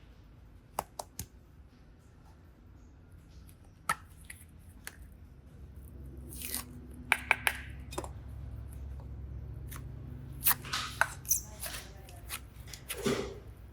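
Hands handling craft materials: scattered small sharp clicks and a few short rustling, tearing sounds over a low steady hum.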